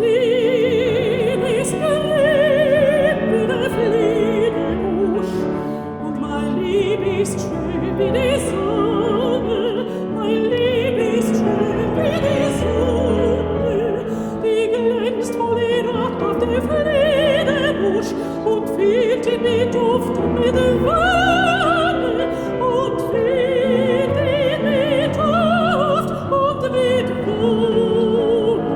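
Background music: a classical operatic voice singing with wide vibrato over instrumental accompaniment.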